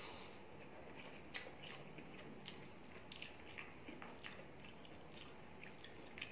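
Eating chicken curry and rice by hand: wet chewing with scattered short mouth clicks and smacks, the sharpest about a second and a half in, and fingers squishing curry-soaked rice on the plate.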